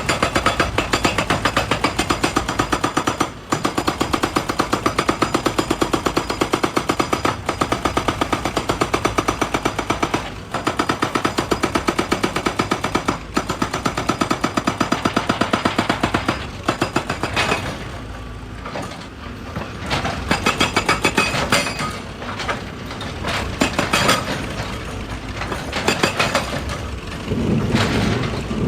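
Excavator-mounted hydraulic breaker hammering rock in long runs of rapid, evenly spaced blows, broken by short pauses every few seconds. After about seventeen seconds the hammering comes in shorter, irregular bursts.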